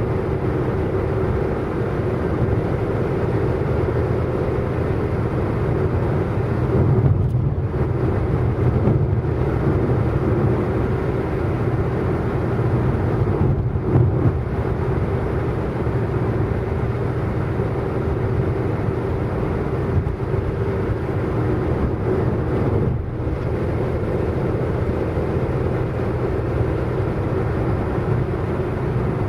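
A car driving at speed: steady engine and road noise, with a brief dip in level a few times, about a quarter, half and three quarters of the way through.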